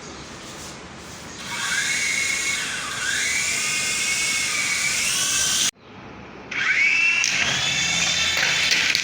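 Small electric motor of a toy RC helicopter spinning up with a high whine, its pitch rising and dipping, over a hiss from the rotor. It cuts off abruptly a little past halfway, then starts again about a second later with a rising whine.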